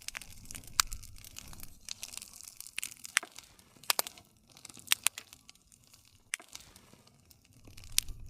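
Wood campfire crackling, with a soft crackle throughout and sharp pops and snaps from the burning wood, several of them loud, one of the loudest near the end.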